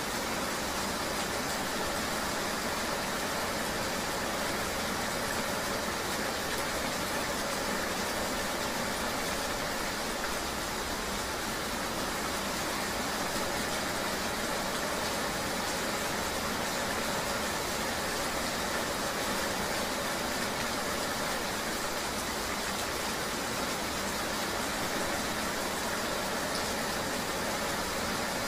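Steady rain-and-road ambience of riding in the rain: an even hiss with no breaks or distinct events.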